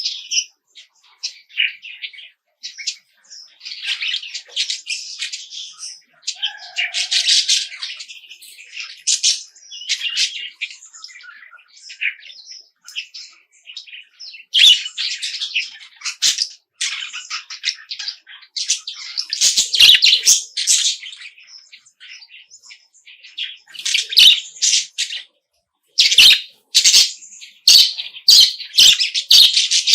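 Small birds chirping and twittering in quick, overlapping bursts of high calls, with short pauses between bouts. Several sharp clicks come in the last few seconds.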